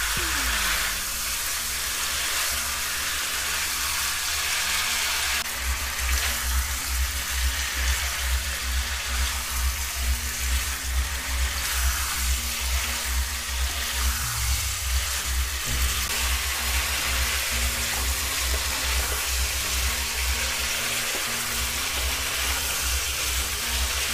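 Masala-coated chicken pieces sizzling and frying in a non-stick kadhai while being stirred with a wooden spatula. Background music with a steady low beat comes in about five seconds in and fades near the end.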